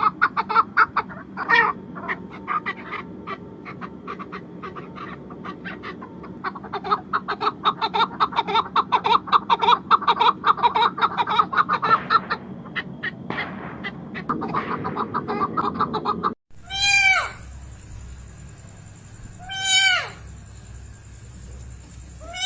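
Chickens clucking in a rapid, dense chatter for most of the stretch. After an abrupt cut, three separate short calls follow, each falling in pitch, about three seconds apart.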